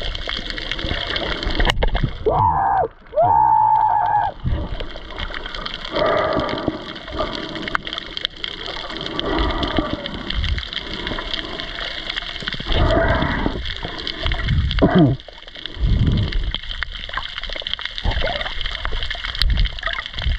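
Water gurgling and sloshing around the camera, in uneven surges over a steady hiss, with a few short wavering tones among them.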